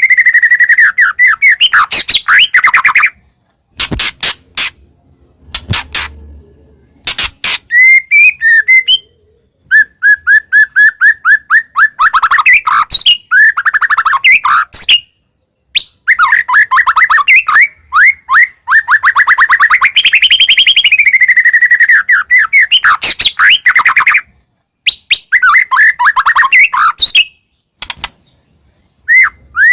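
White-rumped shama singing loudly and vigorously: long runs of rapid repeated chirps and fast trills that swoop up and down in pitch, broken by several short pauses. A few sharp clicking notes come about five seconds in.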